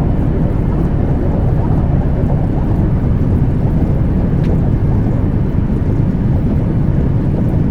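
Steady loud cabin noise of a Boeing 737-800, a low rumble of engines and rushing air with no change in level.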